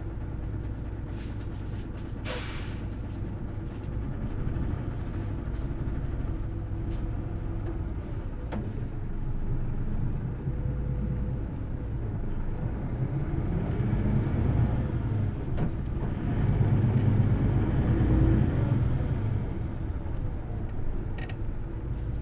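Onboard running sound of a Hino Blue Ribbon City Hybrid diesel-electric city bus: the engine and drivetrain drone steadily, then rise and fall in pitch as it pulls away and gets louder from about thirteen seconds in, the engine run at high revs. A short hiss of air about two seconds in and a few light clicks and rattles.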